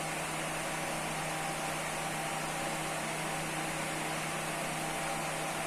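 Exhaust fan running steadily: an even rush of air with a steady motor hum.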